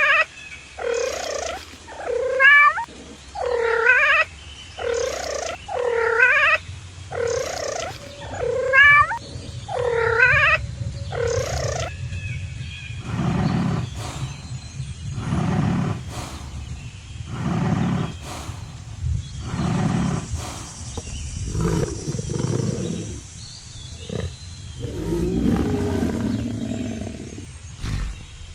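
A cat meowing over and over, about one meow every second and a half, for the first twelve seconds. After that comes a series of deep, low calls from a larger animal, about one every two seconds.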